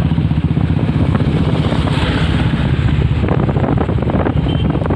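Royal Enfield Bullet's single-cylinder engine running with a steady, rapid low thump, with wind noise on the microphone.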